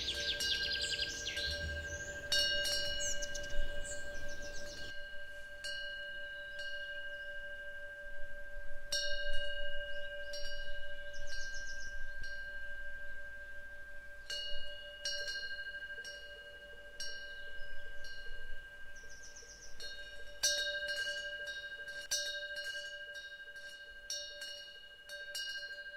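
Wind chimes tinkling with many light, irregular strikes over a steady, sustained ringing.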